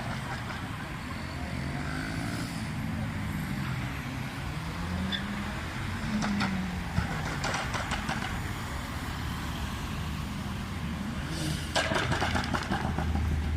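Car engine running and revving, its pitch rising to a peak about halfway through and falling away, with a steady low engine drone near the end.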